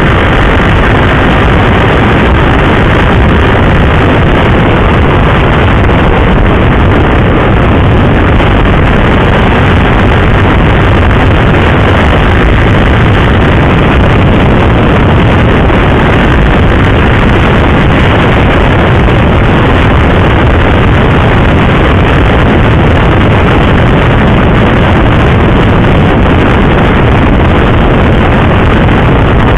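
KTM RC 390 single-cylinder motorcycle riding at a steady speed. The engine drone is mixed with loud, steady wind rush on the microphone.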